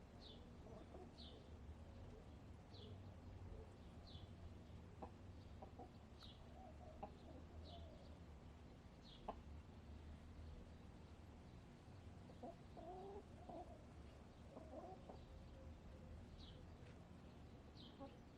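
Faint soft clucking and murmuring from backyard hens, with a small wild bird repeating a short high chirp about once a second, and a few light clicks.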